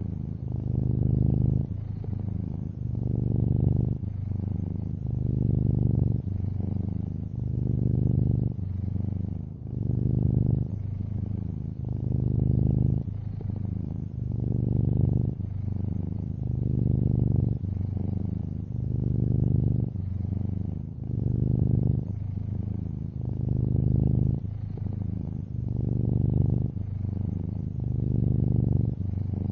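Domestic cat purring close up, a low steady rumble that swells and eases in a regular rhythm with each breath, about once every second and a half.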